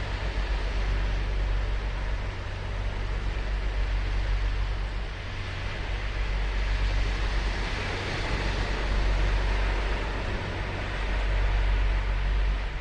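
Ocean surf breaking and washing up a sandy beach: a steady rush that swells and eases slowly, over a deep low rumble.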